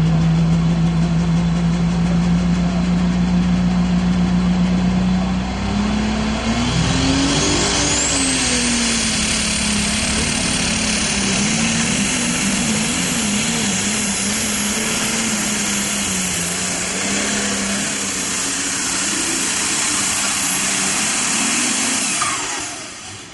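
8,000 lb diesel super stock pulling tractor making a pull. The engine holds a steady high tone for about five seconds, then goes under load with its pitch wavering, while a high turbocharger whistle climbs and holds. Near the end the engine shuts down and the whistle falls away.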